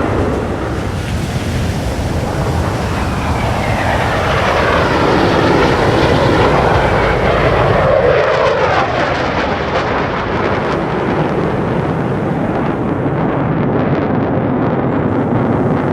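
F-16 Fighting Falcon jet noise from a USAF Thunderbirds pass. The roar builds and its pitch falls as the jet goes by, loudest a little past the middle, then tails off into a steady rumble.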